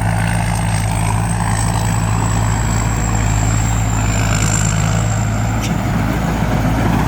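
Combine harvester running steadily, its engine a constant low drone with a thin high whine above it.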